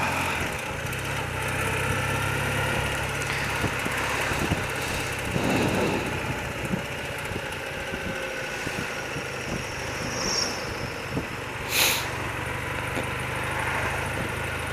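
Thirty-year-old BMW motorcycle's engine idling steadily, with a short sharp click near the end.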